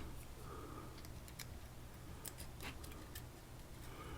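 Faint, scattered small clicks and ticks of metal padlock parts and hand tools being handled, about half a dozen over a few seconds, over a low steady hum.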